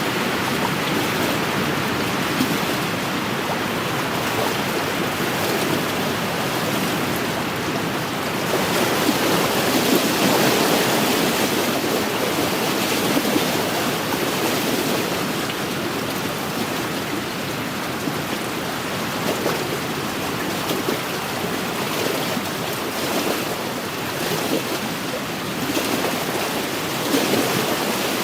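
Wind-driven waves on a lake washing against the shore in a steady rushing wash, swelling louder about a third of the way in and again near the end.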